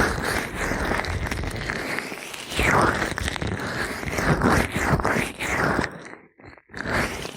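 Gloved, oiled fingers rubbing and squishing against an ear microphone: close, crackling friction noise in slow swells, with a short pause about six seconds in.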